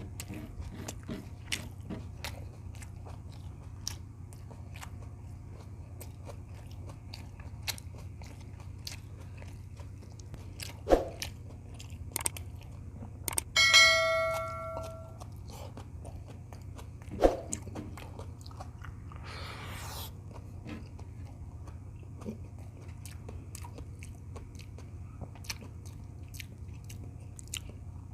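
Close-miked chewing and biting of beef tocino and rice, with many small mouth and utensil clicks over a steady low hum. About halfway a single clink rings out and fades, with a couple of louder knocks around it.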